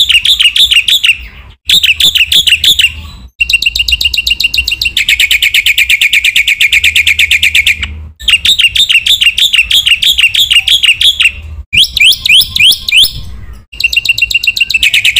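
Black-winged myna (jalak putih) singing loud, fast phrases of repeated rattling chirps and trills. The phrases are separated by brief breaks, with a low hum under the song.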